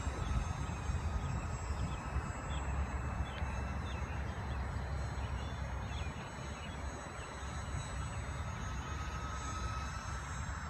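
Faint steady whine of a twin-engine radio-controlled Aero Commander model airplane in flight, fading through the middle and coming back near the end, under a heavy rumble of wind on the microphone.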